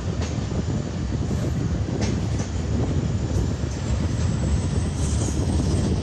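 Express train's passenger coach running at speed, heard from its open window: a steady rumble of wheels on rail with a couple of faint clicks from the rail joints.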